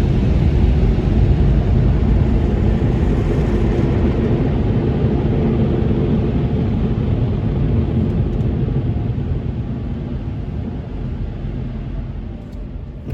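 Touchless car wash air dryers blowing a loud, steady roar, heard from inside the car, slowly fading over the last several seconds.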